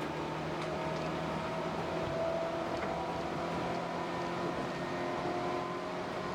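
Tobu 8000 series electric train running: a steady rumble with faint whining tones, one rising slightly in pitch over the first two seconds and then holding.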